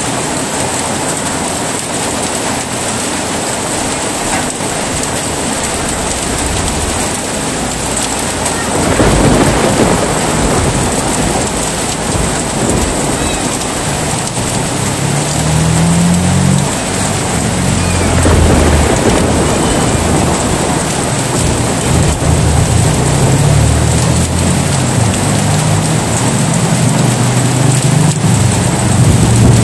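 Heavy rain falling steadily. Rolling thunder rumbles in about a third of the way through and grows stronger and more continuous toward the end.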